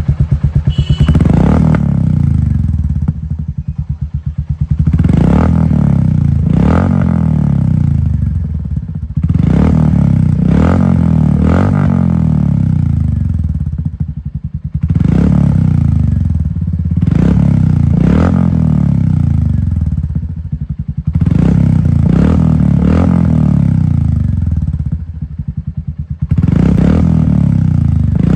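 Royal Enfield 350 single-cylinder motorcycle engine running through an aftermarket Globe Cobra silencer. It idles with an even thump, broken by repeated short throttle blips, often two close together, that rise and fall back to idle.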